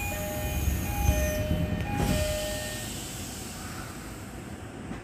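Tokyo Metro 16000 series electric train running past the platform, with a high whine falling in pitch over the first second and a half. A two-note tone alternates for about the first three seconds over the rumble, and the train sound fades after about two seconds.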